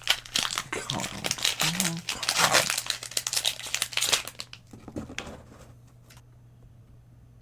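Crinkling and tearing of a Lorcana booster pack's plastic wrapper as it is ripped open, a dense run of crackles that stops about four and a half seconds in, followed by a few faint rustles.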